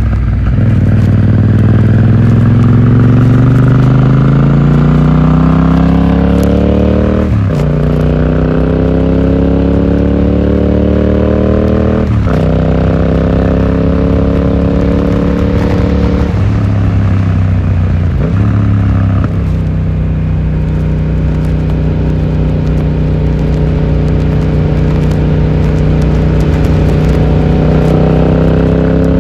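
Yamaha XSR700's parallel-twin engine through an Akrapovic exhaust, accelerating with the pitch rising and dropping at each of several upshifts, then running at a steady cruise for the second half.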